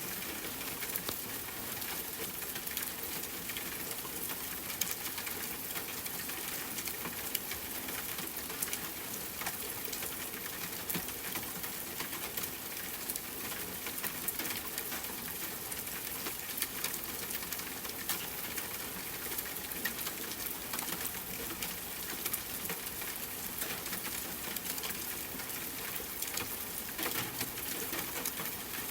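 Steady rain with a crackling campfire: an even hiss of rain, dotted with frequent small sharp ticks and pops.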